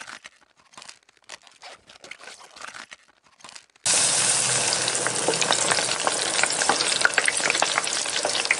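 Faint scattered crackles, then about four seconds in a loud sizzle of food frying in hot oil starts suddenly and runs on, full of sharp spitting crackles.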